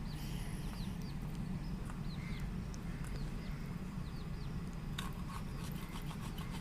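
A steady low hum with repeated short, high falling chirps like small birds in the background. From about five seconds in there are light clicks and taps.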